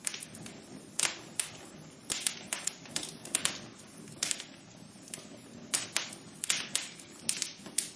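Wood fire crackling in a fireplace: irregular sharp pops and snaps, some in quick clusters, over a low steady hiss.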